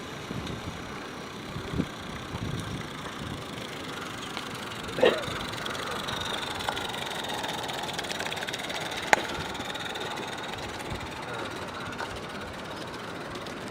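Railway locomotive running with a steady rumble. A few short sharp knocks stand out, the loudest about five seconds in.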